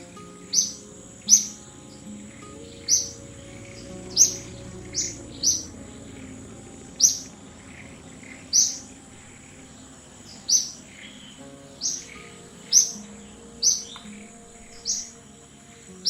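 A bird giving short, sharp, high chirps, about one a second at an uneven pace, over a steady high-pitched whine.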